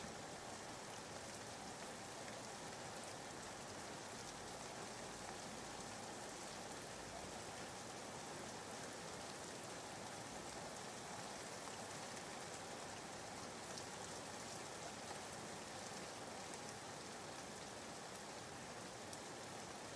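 Soft, steady rain ambience, a faint even hiss of rainfall with a scatter of light drop ticks, added as background white noise.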